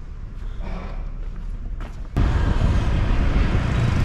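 Quiet background for the first two seconds, then a sudden switch to the loud rushing noise of riding pillion on a motorbike through city streets: wind on the microphone over the motorbike engine.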